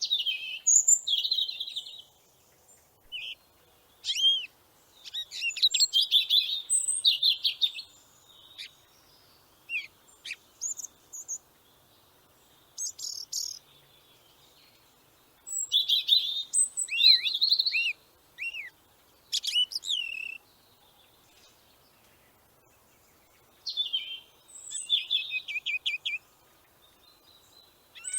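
Songbird singing: high-pitched chirps and trills in short phrases of a second or two, with pauses of a few seconds between them.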